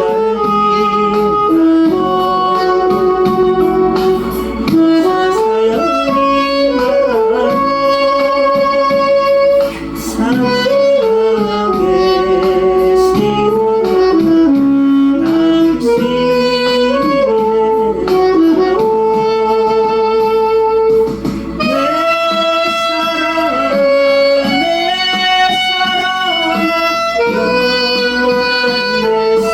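Saxophone playing a slow song melody in long held notes with vibrato, over a backing track.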